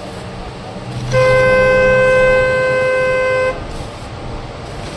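A vehicle horn sounds one steady, unbroken note lasting about two and a half seconds. It drops a little in loudness partway through and then stops.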